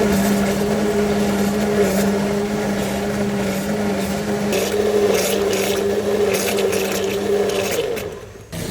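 Electric blender motor running steadily with a low hum, cutting off shortly before the end.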